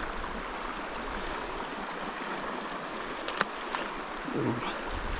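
Small mountain creek running steadily over its rocks, with two sharp ticks about three and a half seconds in.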